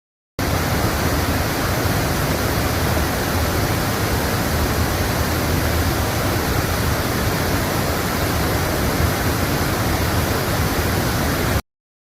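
Waterfall running: a loud, steady rush of falling water, cut in sharply and cut off sharply about a second before the end.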